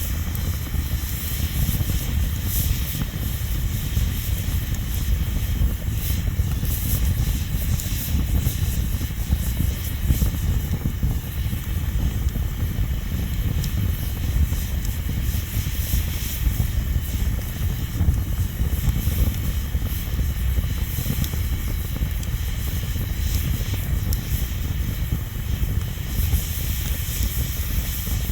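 Wood bonfire burning: a steady low rumble of flames under a hiss, with scattered faint crackles.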